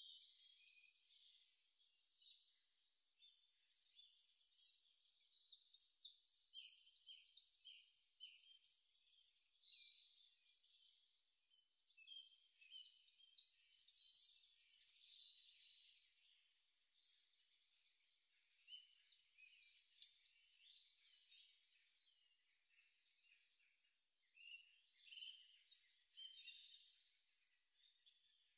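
Birds chirping, with a fast trilled phrase of song repeating every six or seven seconds.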